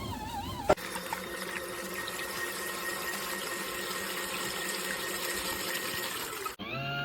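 Small electric motor of a portable mini washing machine running steadily with water churning in the tub, starting after a sharp click about a second in. Near the end the sound cuts abruptly to a different pitched motor whine.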